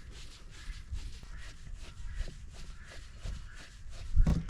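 Hand tool and handling noise while screws come out of a generator's plastic casing: a run of quick, light clicks, several a second, then a single louder knock near the end.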